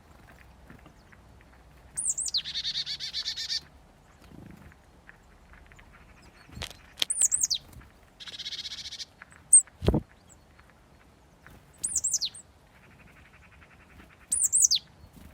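Small songbirds calling: high, thin notes that slide quickly downward, repeated four times, alternating with fast buzzy trills. Two sharp knocks, about seven and ten seconds in.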